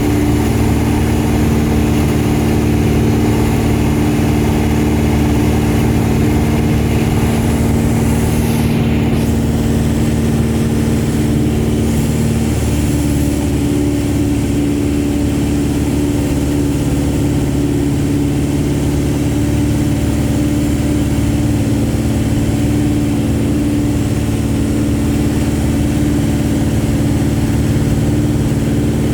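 VariEze light aircraft's piston engine and pusher propeller running with a steady drone, its pitch shifting slightly about halfway through.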